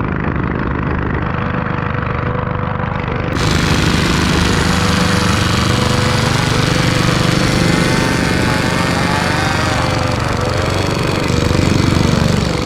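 Small petrol engines on a home-built all-wheel-drive motorcycle running hard with a fast rattling beat, their pitch wavering up and down as the throttle changes. The sound gets louder about three seconds in.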